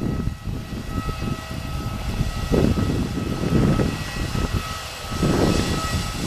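Airbus A319 airliner whining steadily with a thin high tone, heard over gusty low rumble from wind on the microphone.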